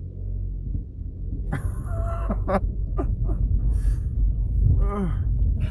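Off-road vehicle's engine idling with a steady low rumble while stopped. From about a second and a half in, several short, high, squeaky sounds rise and fall in pitch over it.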